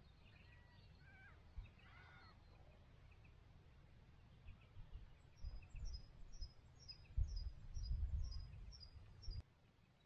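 Birds calling: a few varied whistled notes early on, then from about five seconds in one bird repeats a short, high, falling note about three times a second, roughly ten times. Gusts of wind rumble on the microphone under the calls, loudest in the second half, and the sound cuts off abruptly near the end.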